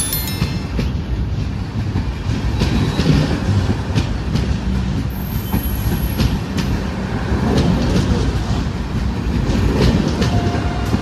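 A train running on the rails: a steady heavy rumble with scattered clicks from the wheels.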